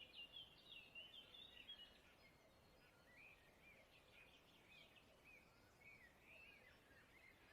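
Faint birdsong: a run of quick chirping and warbling notes, busiest in the first two seconds, then sparser chirps.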